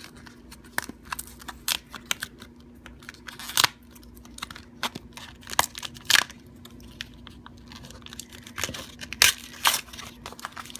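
Foil wrapper of a Pokémon TCG booster pack being torn open and crinkled: a run of sharp crackles with louder rips about three and a half, six and nine seconds in.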